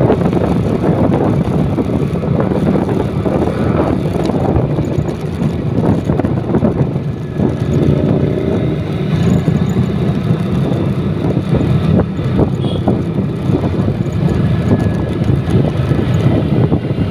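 Motorcycle running on the road while being ridden: a steady engine note mixed with dense road and wind noise.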